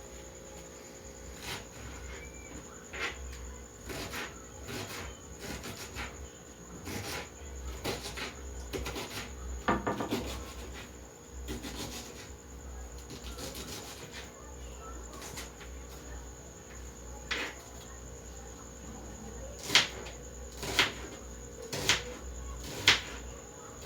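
Kitchen knife chopping an onion on a cutting board: single cuts landing about a second apart, with four sharper knocks near the end.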